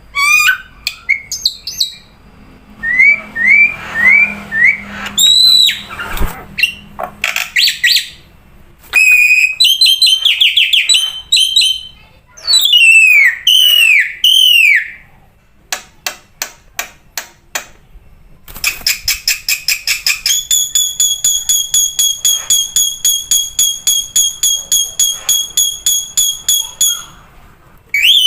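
Black-winged myna (jalak putih) singing a loud, varied song: short whistled notes sweeping up and down, runs of rapid sharp clicks, and, from about two-thirds in, a long fast series of repeated shrill notes.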